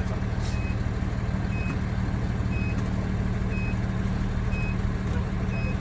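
Fire engine's reversing alarm beeping, a short high beep about once a second, over the steady drone of its diesel engine running.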